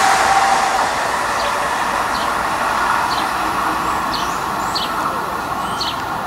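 Rolling noise of a departing Amtrak train of Amfleet cars, fading slowly as it pulls away, with a steady high tone under it. From about a second and a half in, a bird gives short falling chirps, repeated every half second to a second.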